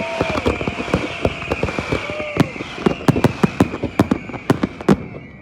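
Fireworks going off: many sharp bangs and crackles in quick succession over a steady high-pitched sound that fades out near the end.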